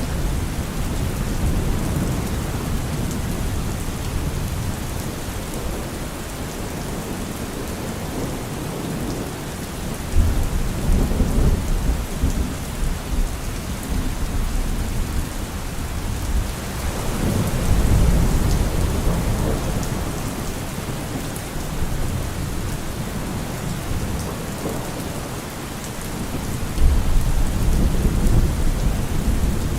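Steady rain falling, with rolling thunder rumbling low three times: about ten seconds in, again around seventeen to eighteen seconds, and near the end.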